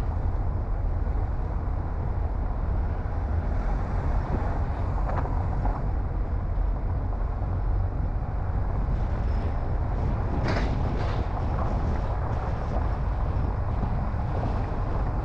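Car driving: a steady low rumble of engine and tyre noise, with a brief sharper noise about ten seconds in.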